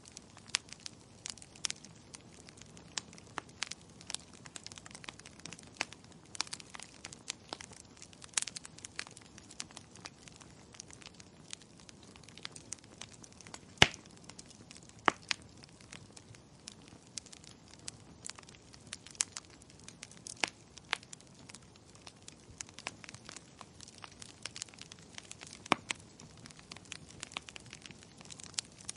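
Wood fire crackling: irregular sharp pops and snaps over a faint steady hiss, with one louder pop about 14 seconds in.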